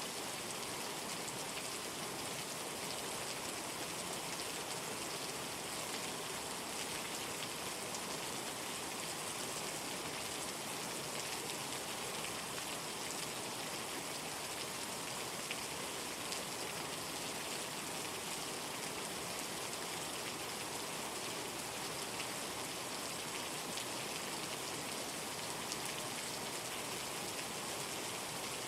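Steady rain falling: an even hiss dotted with many small ticks of drops, unchanging throughout.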